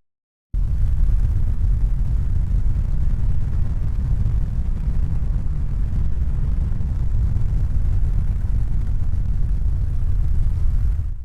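Steady low rumbling noise with no distinct tones or rhythm. It starts abruptly about half a second in and fades out just before the end.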